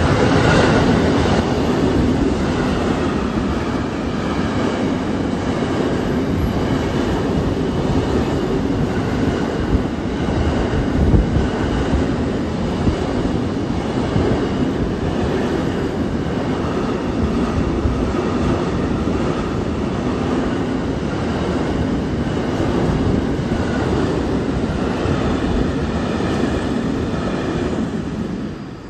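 Train running along the track, a steady loud rumble of wheels on rails with a faint high whine over it, cutting off abruptly near the end.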